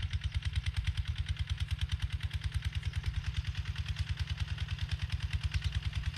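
Kubota ZT140 single-cylinder diesel engine running steadily while plowing, an even, rapid chug of about nine beats a second.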